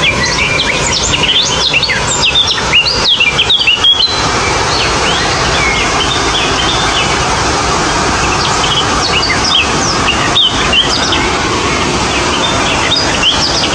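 Several small birds chirping and twittering in quick short notes, busiest in the first few seconds and again later, over a steady background hiss.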